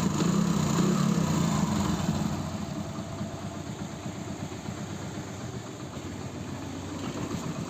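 Hero Passion Pro's single-cylinder four-stroke engine idling quiet and smooth with a new timing chain, tensioner pad and roller fitted: the timing-chain rattle is gone. The hum drops lower after about two seconds and then holds steady.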